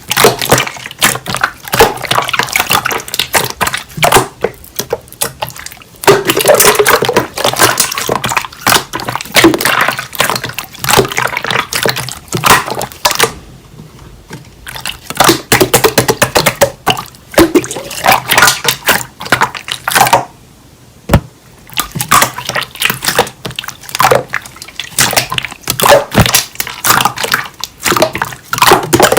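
Hands squishing, stretching and poking slime: a dense run of wet clicks, crackles and small pops. It pauses twice, about halfway through and again around two-thirds of the way in.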